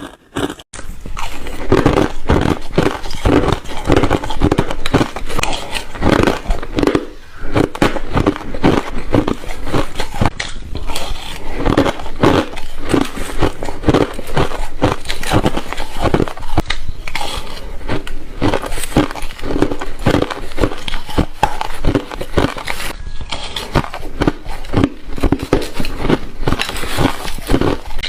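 Close-miked biting and chewing of ice: a dense, unbroken run of crunches that starts about a second in.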